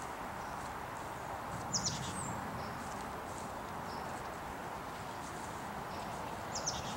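A small bird giving a few short, high chirps about two seconds in and again near the end, over a steady background hiss.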